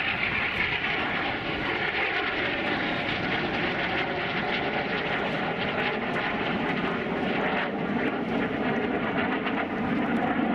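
Jet engine of a vintage jet fighter, a steady roar with a faint whine, typical of an F-86 Sabre or MiG-15 in flight.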